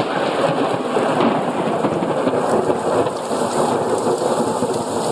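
Heavy rain pouring steadily in a thunderstorm, with thunder rumbling.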